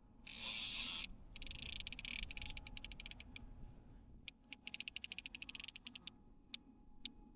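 Fishing reel's drag clicking in fast runs that merge into a buzz, as a hooked white sturgeon pulls line: a solid buzz about a quarter second in, two long runs of rapid clicks, then a few single clicks.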